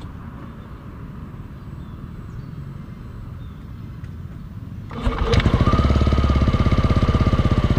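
Yamaha Aerox 155 scooter's single-cylinder engine breathing through an ROB1 aftermarket exhaust. About five seconds in it starts suddenly and then idles with a steady, rapid, even putter, after a few seconds of low rumble.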